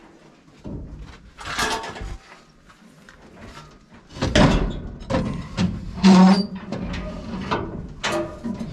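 Metal scraping and clunking as a heavy part is worked and pulled out through a tight opening in a combine. There are several irregular scrapes and knocks, the loudest about six seconds in.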